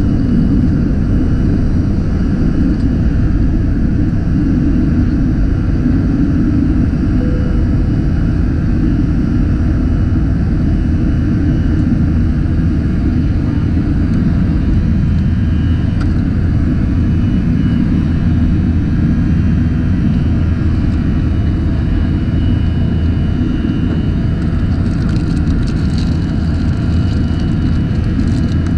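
Cabin noise inside a Delta Airbus A321-200 jetliner: the steady deep rumble of the jet engines and airflow heard from a window seat, with a few faint ticks near the end.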